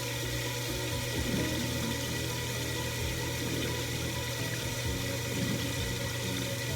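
Chicken legs frying in hot oil with the marinade poured in: a steady sizzle over a constant low hum.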